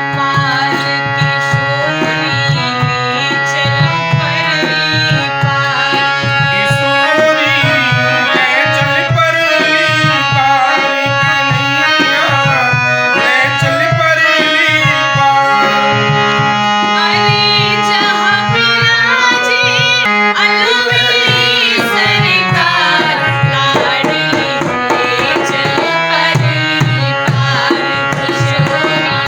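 Indian devotional music: tabla keeps a steady rhythm under sustained melodic tones, with a voice singing gliding, ornamented lines.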